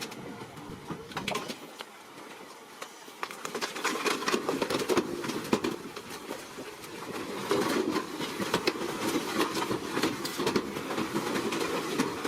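Small bulldozer at work: engine running under the clatter of its steel tracks and the crunch of crushed stone being pushed. It grows louder about four seconds in and again near eight seconds.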